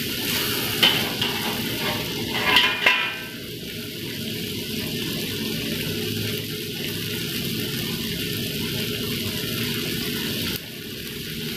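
Sliced tomato, shallot and garlic sizzling in oil in a wok, with a few scrapes and taps of a metal spatula against the wok in the first three seconds, then a steady sizzle.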